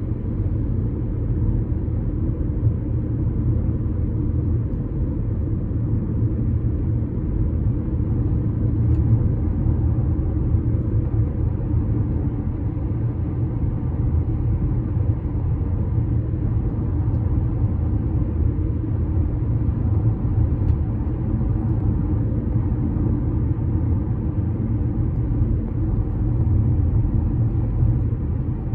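Steady low rumble from a bridge, even and unbroken, with nothing sharp or high in it.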